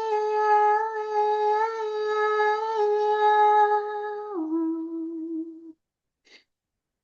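A voice humming one long held note, which steps down to a lower note about four seconds in and stops shortly after.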